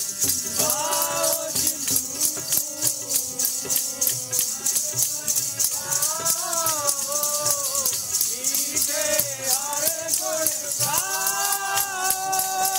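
Sikh kirtan: voices singing a devotional melody in phrases over a fast, steady beat of jingling, rattling percussion.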